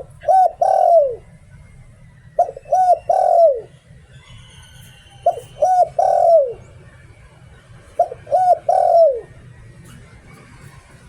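Spotted dove cooing in the 'liu tan' style prized by Thai dove keepers: four phrases, each two short coos and a longer coo that falls in pitch, repeating about every two and a half seconds. Faint high chirps of a small bird and a low steady hum lie beneath.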